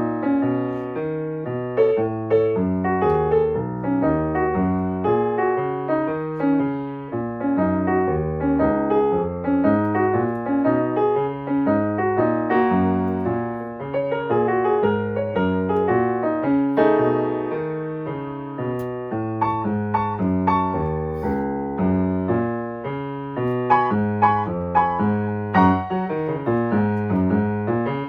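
Piano playing a fast, busy passage: a running melody over a moving bass line, with sharper accented chords near the end.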